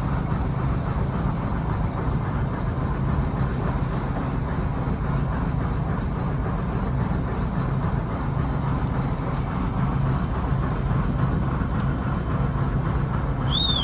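Fishing trawler's diesel engine running steadily, a low even drone. A brief high whistle sounds near the end.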